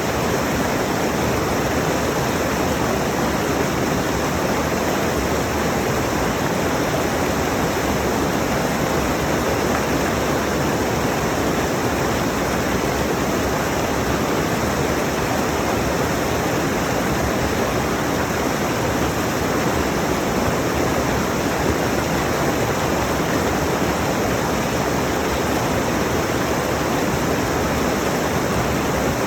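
Rushing mountain stream: a steady, loud rush of water flowing over rocks, unchanging throughout.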